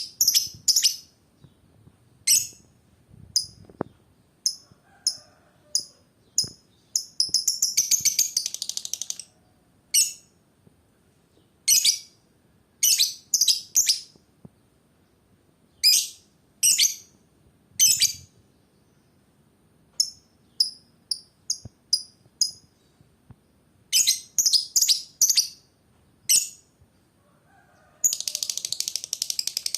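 Lovebird chirping: sharp, high-pitched single chirps and short clusters of chirps. About seven seconds in comes a long, rapid chattering run lasting around two seconds, and another starts near the end; this is the trilling 'ngekek' song that fanciers value in a lovebird.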